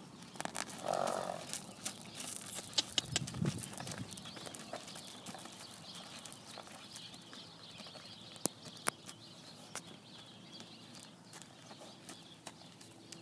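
A pony snorting about three and a half seconds in, with a short call about a second in and scattered sharp clicks and knocks.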